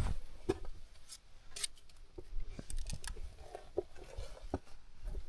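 Footsteps on rocky ground: irregular sharp crunching clicks with a few light thumps.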